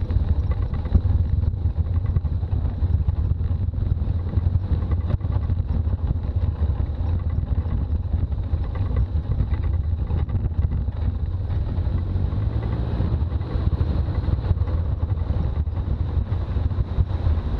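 Toyota BJ40 Land Cruiser's four-cylinder diesel engine running steadily while driving, with a deep road rumble; the engine pitch rises slightly a little past the middle.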